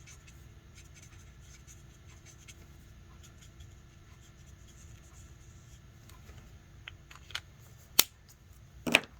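Alcohol marker tip dabbing and scratching faintly on cardstock, a run of small ticks, followed near the end by a few sharp clicks, the loudest about eight seconds in.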